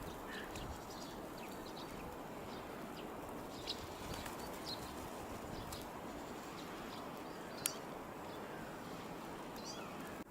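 Outdoor park ambience: a steady background rush with scattered short, high chirps of small birds. A sharp click comes about three-quarters of the way through.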